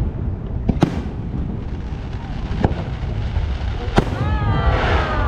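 Aerial fireworks shells bursting: four sharp bangs, two close together near the start, another about midway and one near the end, over a steady low rumble.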